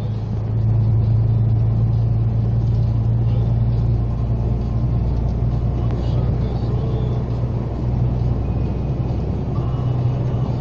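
Heavy truck's diesel engine droning steadily under load on an uphill climb, heard from inside the cab, with road noise over it; it grows a little louder about half a second in.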